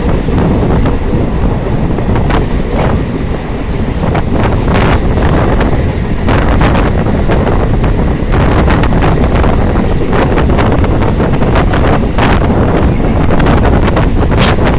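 Loud steady low rumble with wind buffeting the microphone, broken by frequent irregular knocks and rattles.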